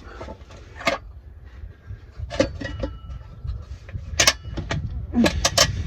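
Metal clanks and knocks from exhaust pipe sections and brackets being handled and fitted, a few of them leaving a brief ringing.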